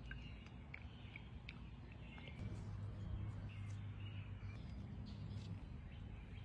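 Faint birds chirping in the background, with a few light clicks and a low steady hum that comes in about two and a half seconds in.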